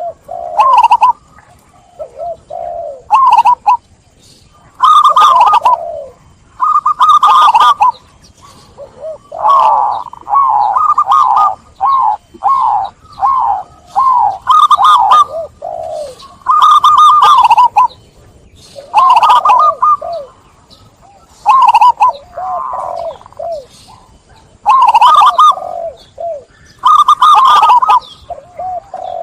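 Zebra dove (perkutut) cooing: repeated phrases of quick, rippling coo notes, one phrase every second or two, with short pauses between them.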